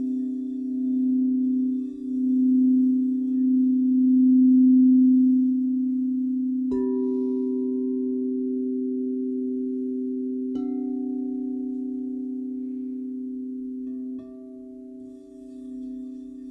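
Crystal singing bowls ringing with several overlapping sustained tones, the lowest swelling and fading in slow waves. A bowl is struck three times, each strike starting a new higher ringing tone that slowly dies away.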